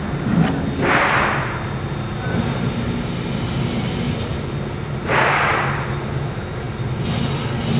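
Shooting-range target carrier motor running steadily as the paper target is brought back, with two short whooshing bursts about four seconds apart.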